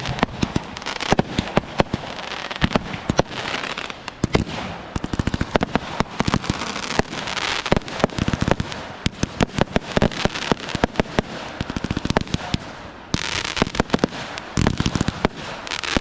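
Fireworks going off: a rapid, irregular string of sharp bangs and pops, with a denser crackling stretch near the end.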